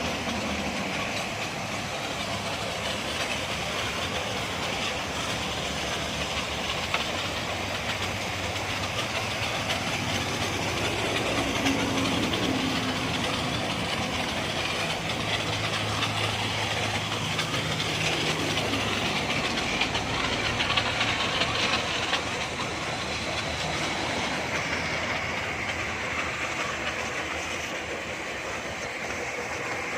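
High-pressure water spray gun hissing steadily as its jet washes a motorbike, with a low machine hum underneath.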